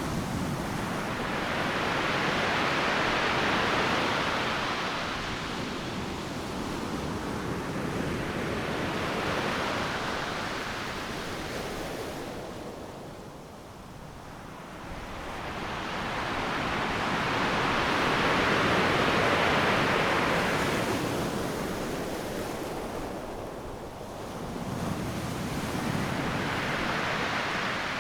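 Ocean surf breaking on a sandy beach: a continuous wash that swells and eases as successive waves crash and run up, with a lull about halfway through before a large wave builds again.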